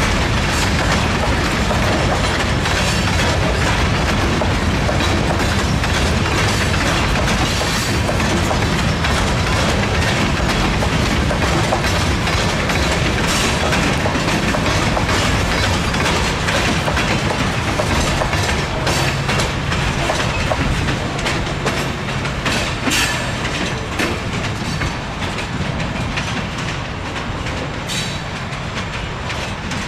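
Freight train of loaded open-top rock hopper cars rolling past close by: a steady rumble of steel wheels with rapid clicks and clanks over the rail joints, easing slightly in loudness over the last several seconds.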